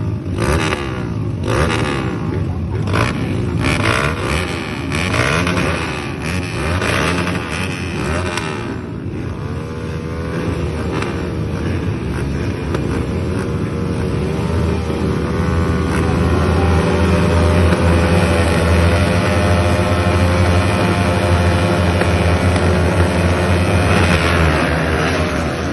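Motocross motorcycle engine revving in short bursts for the first nine seconds or so, then held at high revs with a wavering pitch, louder in the second half.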